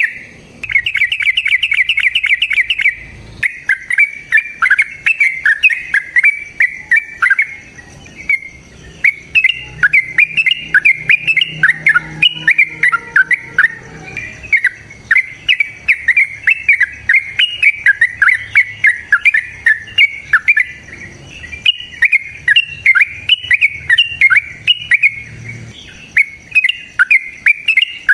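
A lovebird in full song, giving long, unbroken runs of rapid, shrill chattering chirps, the drawn-out 'ngekek' call. A fast, even trill opens it, then the chirps run on quickly and unevenly.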